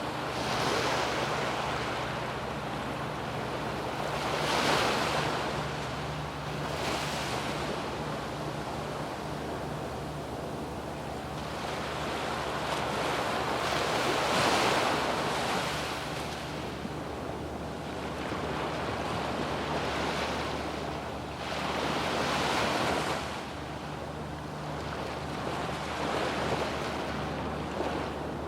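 Sea waves breaking and washing up a sandy beach, the surf swelling and falling every few seconds, loudest a few seconds in and again about halfway through. A steady low hum runs underneath.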